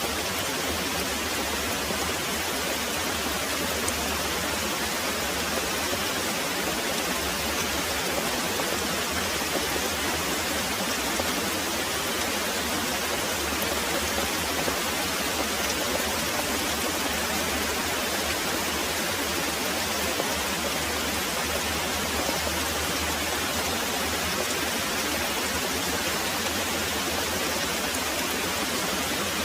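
Very heavy rain pouring steadily: a dense, even hiss with no single drops or gaps standing out.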